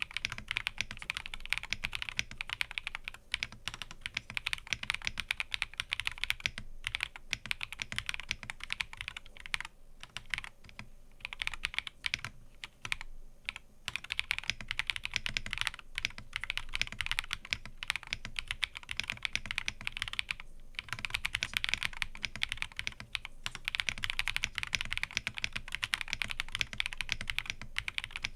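Fast, continuous typing on a mechanical keyboard: a dense run of key clicks and clacks, with a few brief pauses in the middle.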